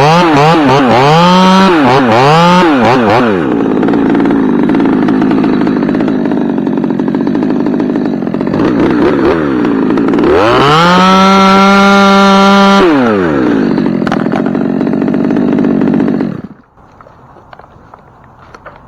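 Chainsaw revved twice in quick succession, left running at a lower speed, then held at high revs for about three seconds. It drops back and is switched off about 16 seconds in, the engine stopping abruptly.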